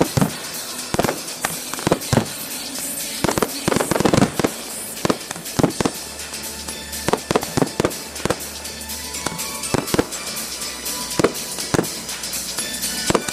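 Aerial fireworks shells going off in a rapid, irregular series of sharp bangs, with crackling and hissing between them.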